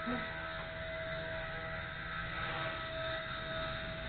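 WLtoys V930 RC helicopter's brushless motor and main rotor running loud and steady: an even high whine over the rotor's rush of air.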